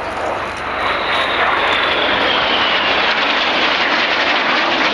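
Red Arrows BAE Hawk jets flying past: loud, steady jet engine noise that grows louder about a second in, with a high whine that slowly falls in pitch as they pass.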